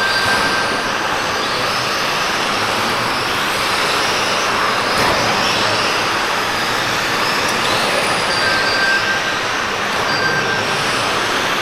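Several radio-controlled model trucks racing, their motors whining up and down in pitch over a steady rush of tyre and drivetrain noise. A few short beeps sound near the end.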